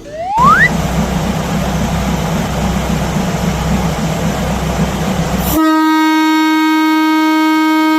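A brief rising whistle, then a train running with a steady low rumble. A little over five seconds in, this cuts to a long, steady blast of a train horn.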